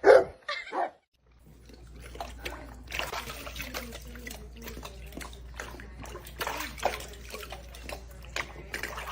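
A dog barks three times in the first second. After a short break, water splashes and trickles irregularly over a steady low hum.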